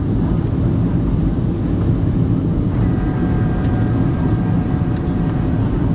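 Steady low rumble of engine and airflow noise inside the cabin of a Boeing 737-800 on approach. About three seconds in, a steady high whine of several tones joins it for a few seconds.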